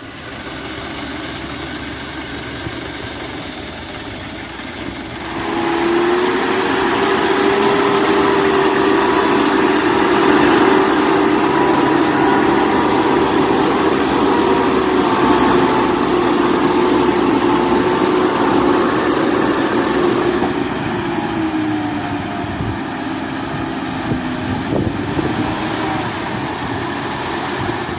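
A heavy truck's engine revving hard and holding high revs for a long stretch, then easing off about three-quarters of the way through: the truck is straining against wet dirt, most likely stuck.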